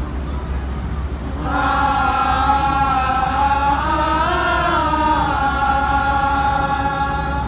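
Choir singing long held notes in unison. After a short pause it comes back in about a second and a half in, rises a little in pitch near the middle and settles back, with a steady low hum beneath.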